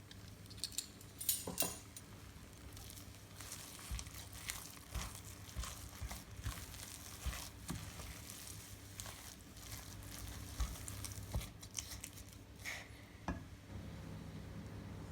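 Kitchen food-preparation sounds: irregular scrapes, clicks and rustles of utensils and ingredients being handled, with a faint steady low hum underneath.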